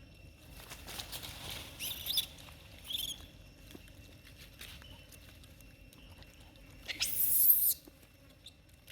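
Monkeys giving short, shrill squeals, three times, the last and loudest near the end.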